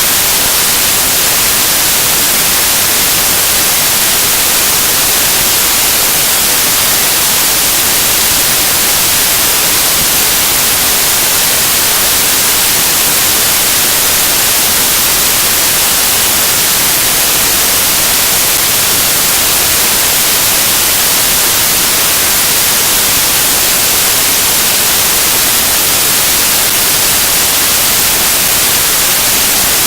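Loud, steady static hiss, strongest in the treble, with no other sound in it.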